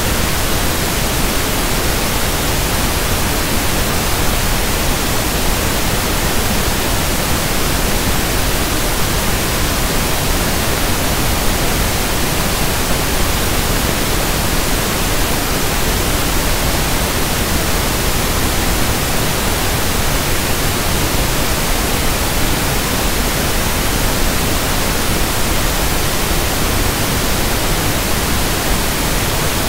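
Steady synthetic pink noise (1/f noise): an even, unbroken hiss spread evenly from low to high pitches.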